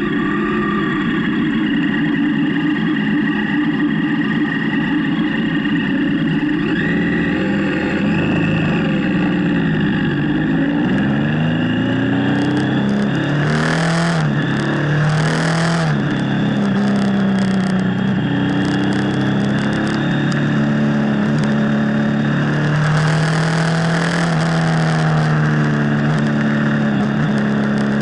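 Motorcycle engine running under way, its note climbing and dropping several times as it revs and changes gear, then holding steadier. Two spells of rushing hiss cut in midway and later.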